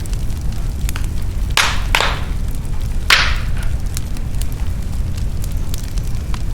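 Wood fire crackling in a fireplace: a steady low rumble of flames under scattered small clicks, with three louder crackling pops between about one and a half and three seconds in.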